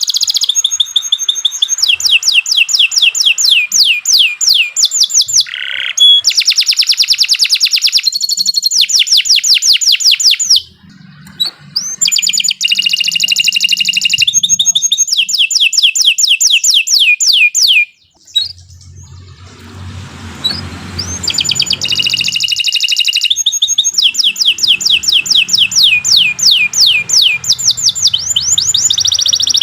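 Domestic canary singing a long song made of rapid trills, each a fast run of repeated falling notes, shifting from one trill type to the next. It pauses briefly about a third of the way in and again just past the middle, where a low hum shows through.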